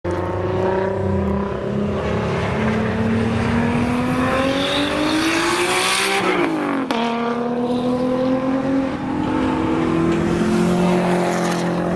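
Single-turbo Nissan R33 GT-R's straight-six engine, very loud, accelerating hard: the revs climb steadily for about six seconds, drop sharply around the middle, then climb again.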